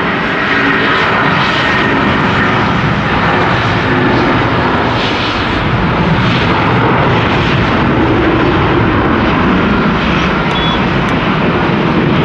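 Jet engines of an Asiana Airlines airliner running at takeoff power, a loud, steady roar.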